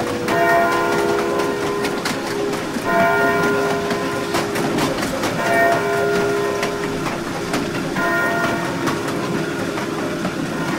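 Moving train: wheels clicking over the rail joints under a steady drone, with a short chord of higher tones, like a horn or signal, sounding about every two and a half seconds.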